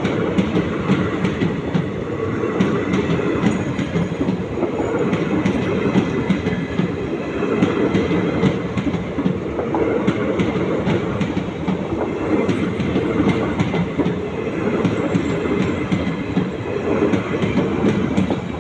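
Passenger train passing at speed, its coaches' wheels clicking over the rail joints in a steady run of clickety-clack.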